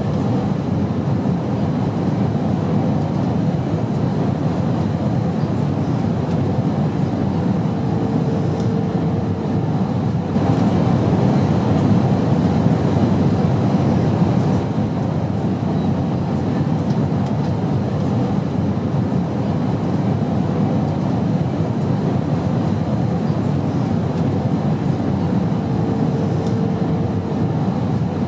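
Airplane in flight: a steady, deep rumbling drone of engine and airflow noise, getting slightly louder for a few seconds partway through, with a faint short hum twice.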